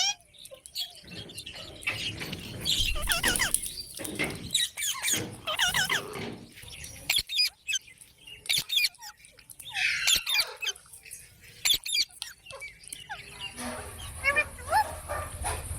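Parrots calling in a run of short, sharp squawks and chirps, some sliding in pitch, coming in clusters.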